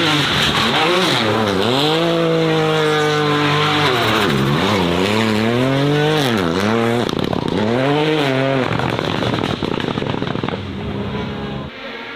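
Race car engine revving hard, its pitch climbing and then dropping sharply and recovering several times as the throttle is lifted and reapplied. After about nine seconds the engine note gives way to a rougher rushing sound that fades near the end.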